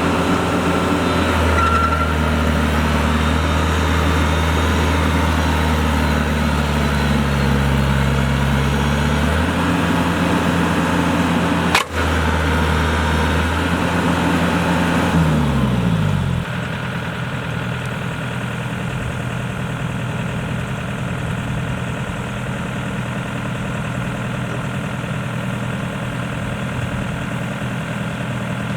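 Diesel engine of heavy farm machinery running. About fifteen seconds in its pitch falls as it slows, and it settles to a quieter, steady idle. A single sharp click comes near the middle.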